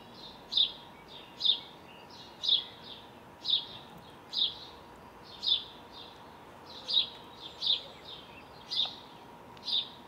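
A bird calling a single short, high chirp about once a second, over and over.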